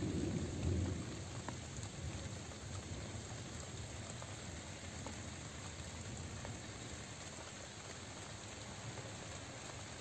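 Steady rainfall, with scattered drops ticking now and then. A low rumble of thunder swells in the first second and then fades under the rain.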